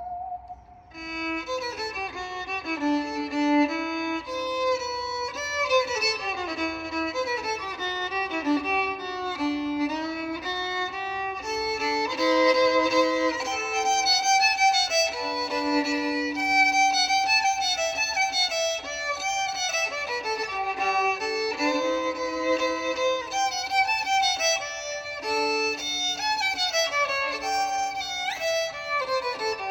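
Violin playing an instrumental melody with sliding notes. It comes in about a second in, after a brief lull.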